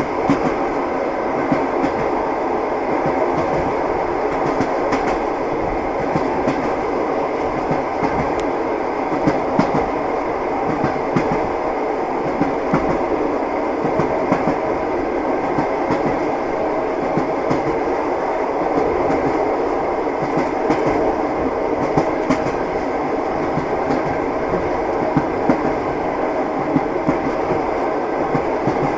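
Passenger train running at speed, heard from inside the carriage: a steady rumble with the wheels knocking over the rail joints in an uneven clickety-clack.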